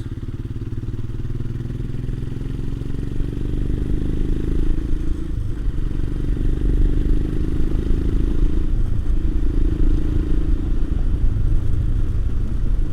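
Royal Enfield Himalayan's single-cylinder engine running at a relaxed cruise, its steady, lazy exhaust beat heard from the bike. The engine note rises a little about three seconds in and then holds steady.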